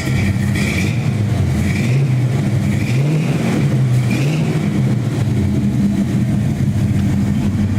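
1970 GMC pickup's engine running through a freshly fitted exhaust with new mufflers, a steady low rumble, revved up briefly twice about three and four seconds in.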